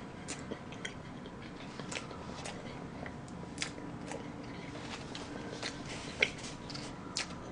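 Close-miked chewing of chocolate cake, with small wet mouth clicks scattered through. A paper tissue is handled near the end, with one sharp click about six seconds in.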